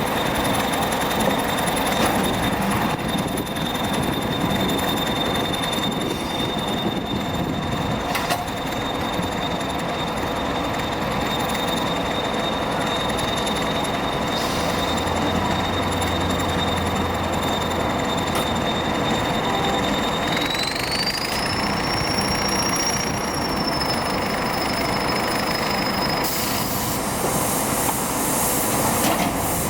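EO-5111B excavator pile-driving rig running steadily, with a high whine that rises in pitch about two-thirds of the way through and cuts off near the end. A few scattered knocks sound over it.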